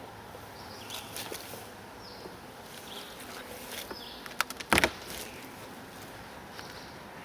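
Honeybees buzzing around an open hive, with a quick cluster of knocks about two-thirds of the way through.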